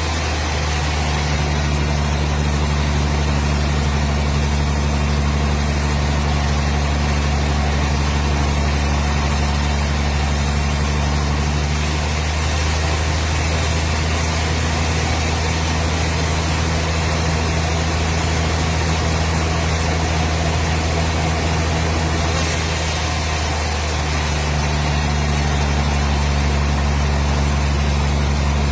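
A machine motor running steadily with a low hum. Its tone shifts slightly about twelve seconds in and again near twenty-four seconds.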